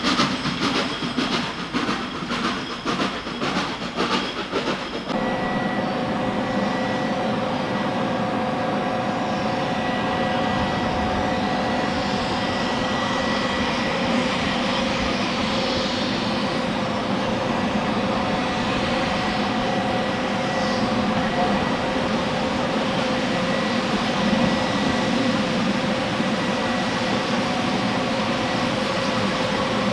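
Heritage railway train running along the line: an even rhythmic clatter for the first few seconds, then a steady rolling rumble with a faint hum.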